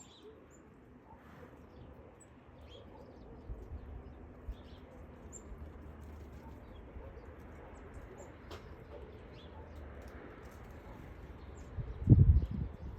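Tits giving short, high chirps here and there over a low, steady rumble, with a loud low thump near the end.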